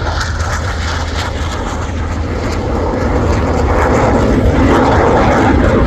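Formation of fixed-wing aircraft flying past, a steady engine rush that grows louder about three seconds in.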